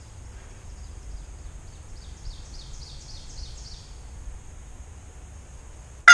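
Quiet outdoor background with a low steady rumble, over which a small songbird sings a quick run of about eight short, falling chirps between two and four seconds in. Right at the very end a turkey gobble breaks in loudly, the first of its rapid strokes.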